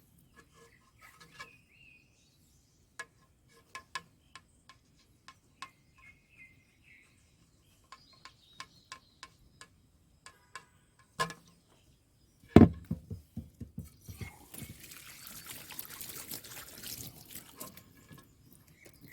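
Scattered light clicks and taps of filter parts being handled, a single loud knock about twelve seconds in, then water splashing and pouring over the last few seconds as the water-tank filter is washed.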